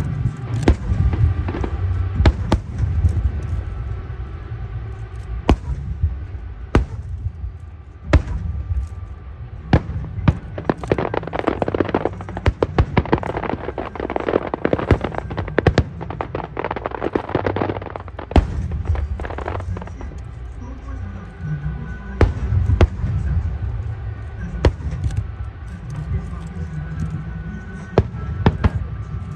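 Aerial fireworks display: a string of sharp shell bursts, thickening into dense crackling in the middle, over a continuous low rumble.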